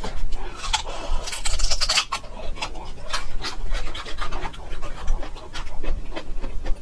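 Chewing of raw ginger root: irregular wet, crisp crunches, densest in the first two seconds.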